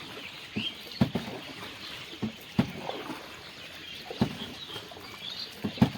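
Wooden rowboat under way: irregular knocks and splashes from the oars working, roughly one every second or so, with faint bird chirps.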